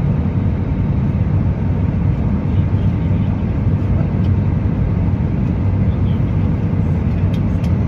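Airliner cabin noise in flight: a steady, low hum of engines and rushing air heard from inside the passenger cabin.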